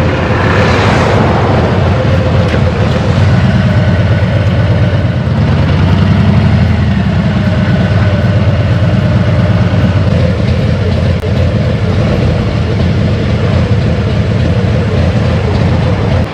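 Motorcycle engine running steadily under way, a loud, even rumble.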